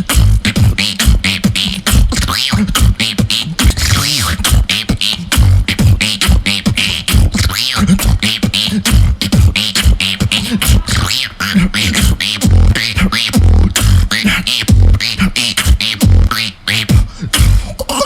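Vocal beatboxing: a fast, steady house-style beat made with the mouth.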